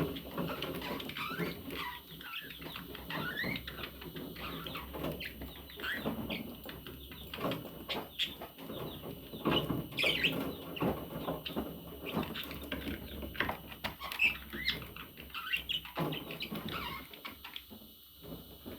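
A budgerigar warbling and chattering, a fast, continuous stream of short rising and falling chirps and squeaks that dies down near the end.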